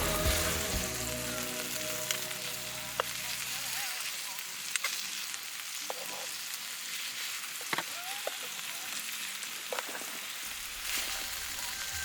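Food sizzling while it cooks: a steady hiss with scattered small pops.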